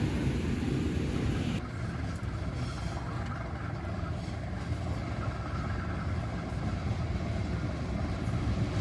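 Train rumbling steadily with a deep low drone, while a brighter hiss cuts off abruptly about one and a half seconds in.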